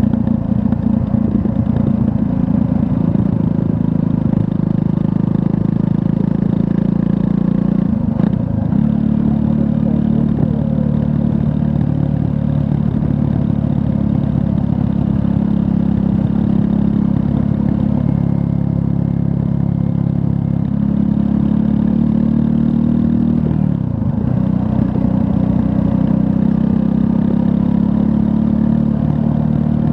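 Triumph Scrambler 400 X's 398 cc liquid-cooled single-cylinder engine running under way. Its note drops briefly and picks back up twice, about eight seconds in and again past the two-thirds mark, as with a gear change or a roll-off and reopening of the throttle.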